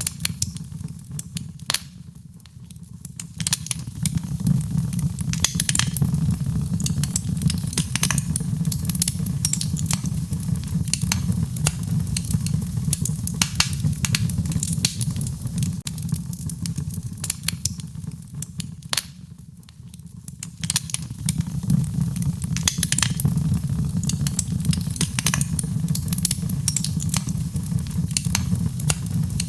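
Wood fire in a fireplace crackling, with many sharp pops and snaps over a steady low rumble of the flames. The fire quietens briefly about two seconds in and again about two-thirds of the way through.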